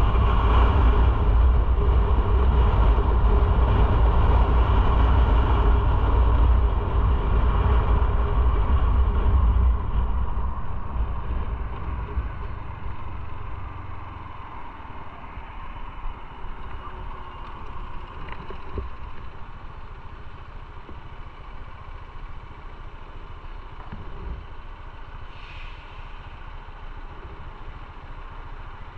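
Motorcycle running on the road with a loud low rumble on the microphone. About a third of the way in it eases off and drops to a quieter, steady engine sound, as if the bike has slowed to an idle.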